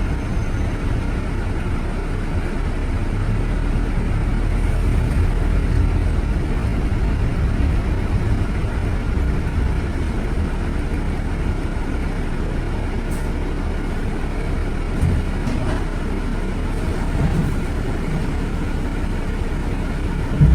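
Steady low rumble of city road traffic, with vehicle engines and tyre noise blending into one continuous drone.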